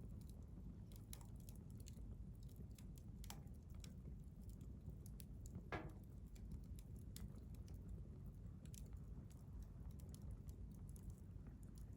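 Wood campfire crackling, with irregular sharp pops and snaps over a low, steady rumble of the flames. About six seconds in there is one brief sliding whistle.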